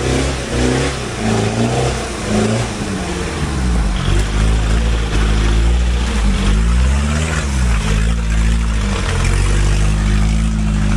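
Off-road 4x4 engine revving up and down as it pushes through thick mud, its pitch rising and falling in repeated swells every second or two over a steady rush of noise.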